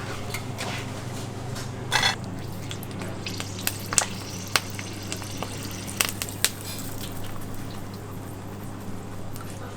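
Restaurant kitchen sounds: a steady low hum under scattered sharp clicks and clatters, with a light frying sizzle.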